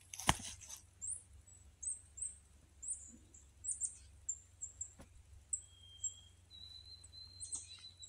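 Songbirds singing: a run of short, high chirps, two or three a second, and from about three-quarters of the way in, a thin whistled note held steady for a couple of seconds. A brief rustling noise at the very start.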